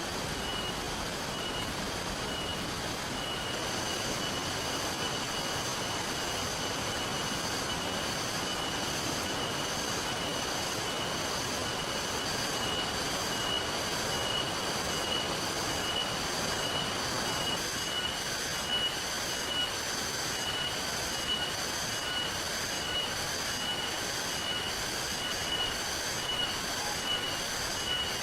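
Steady rain and river water running, with a high-pitched chirping repeated at an even pace over it; a second, higher layer of the chirping joins a few seconds in.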